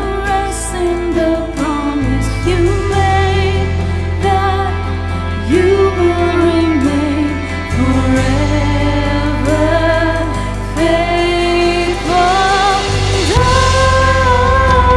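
Christian worship song sung by a worship team: a sung melody over a band with held bass notes that change every few seconds.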